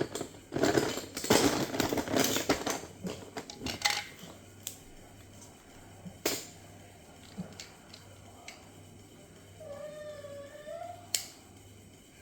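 Plastic Lego bricks clattering and clicking as they are handled and fitted, dense for the first few seconds, then only occasional clicks. About ten seconds in comes a short wavering cry.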